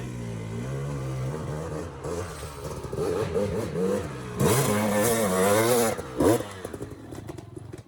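Dirt bike engine revving up and down over rough ground, its pitch rising and falling, loudest about halfway through with a short sharp blip of the throttle after it.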